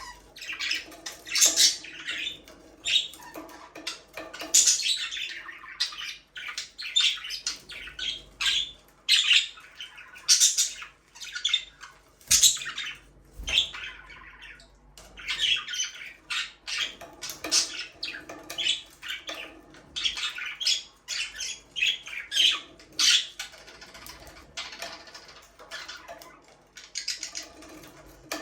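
Budgerigars chattering and squawking in a continuous stream of short, high chirps, one after another with barely a pause.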